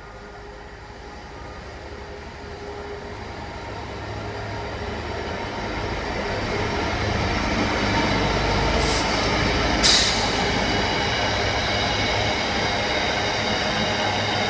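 Freightliner Class 66 diesel locomotive hauling a train of tank wagons: its engine rumble grows steadily louder as it approaches and passes about eight seconds in, followed by the steady rolling of the wagons on the rails. A short sharp high noise comes about ten seconds in.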